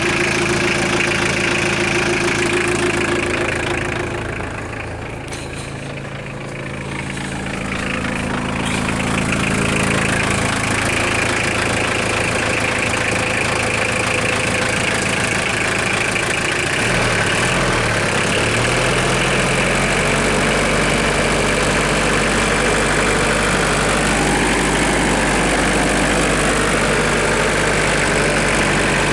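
Mitsubishi Canter truck engine idling steadily with the knock it is being checked for. It turns briefly quieter about four to eight seconds in, and its speed wavers for a moment in the middle before settling.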